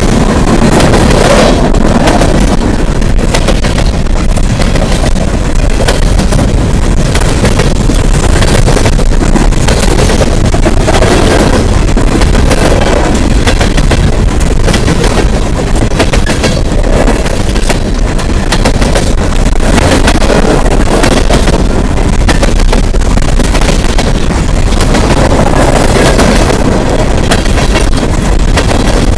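Empty CSX coal hopper cars rolling past: a continuous loud rumble of steel wheels on rail, with constant clatter and frequent bangs from the empty cars.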